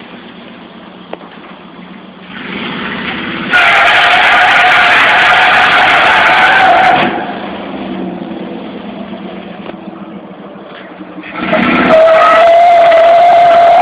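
Truck doing a burnout: its tires spinning and squealing with the engine revving, in two loud bursts, one starting about three and a half seconds in and lasting a few seconds, the other starting near the end, with quieter engine running between them.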